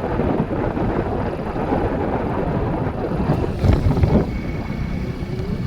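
A vehicle engine running with wind rumbling on the microphone, and a couple of louder low knocks about four seconds in.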